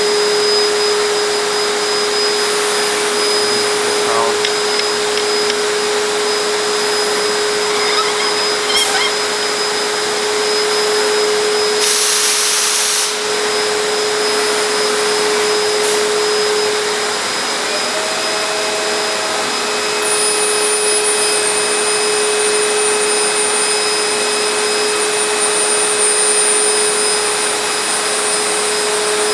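PCB CNC routing machine running: a steady rushing noise with a constant whine that shifts to a higher note about seventeen seconds in. A brief loud hiss comes about twelve seconds in.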